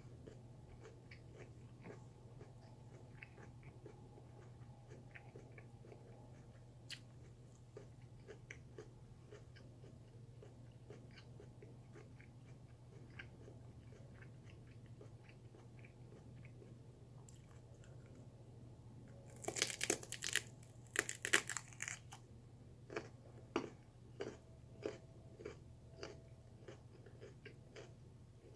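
Crunching and chewing raw sweet potato: faint chewing for most of the time, then a few loud, crisp crunches of bites about two-thirds of the way in, followed by steady crunchy chewing, roughly one to two chews a second.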